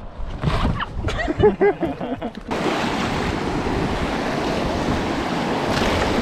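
Whitewater rapids rushing and splashing around a raft: a steady, loud roar of water sets in suddenly about two and a half seconds in. Before it, a voice calls out briefly over a low rumble.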